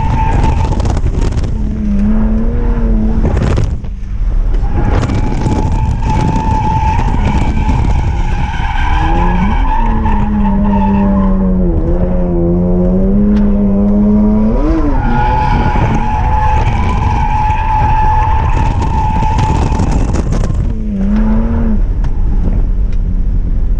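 E46 BMW M3's straight-six engine at high revs with tires squealing through a drift. A brief lift in the sound about four seconds in, and the revs dip and climb again around the middle.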